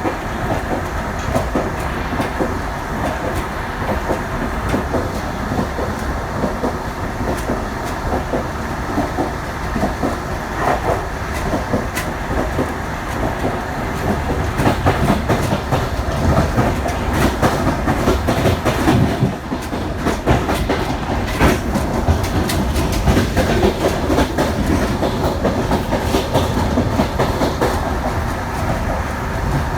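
Passenger train running on the track, its wheels clicking and clattering over rail joints with steady running noise, a little louder in the second half.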